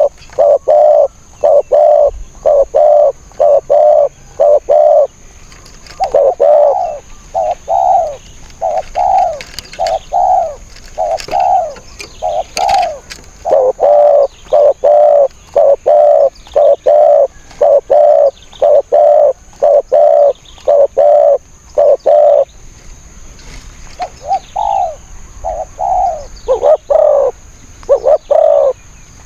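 Spotted doves cooing: short, low, hollow coo notes repeated in quick runs, with brief pauses between the runs.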